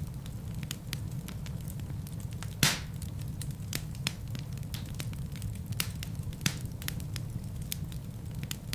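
Wood fire burning in a fireplace: a steady low rumble of flames with irregular crackles and pops from the burning logs, the loudest pop about three seconds in.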